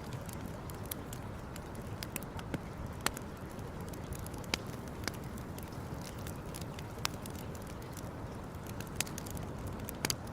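Campfire crackling, with sharp pops coming at irregular moments over a steady low rush of noise.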